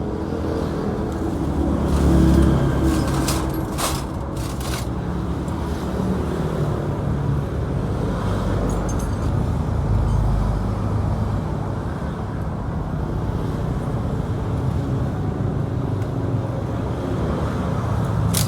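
Motorcycle engine running steadily with road and traffic noise, with a few sharp clicks about three to five seconds in.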